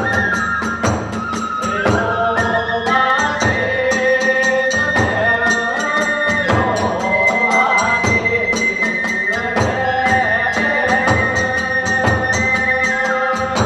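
Kagura hayashi ensemble playing: a bamboo flute carrying a high, sliding melody over a quick, even beat of drum and small hand-cymbal strikes.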